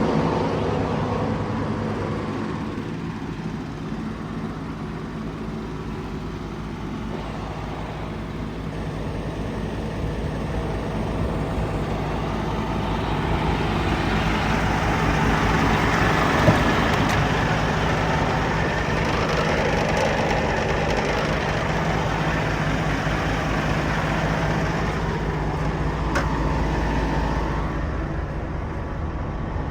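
Scania P230 truck's diesel engine running steadily, its sound swelling and easing gently, with one short click about halfway through.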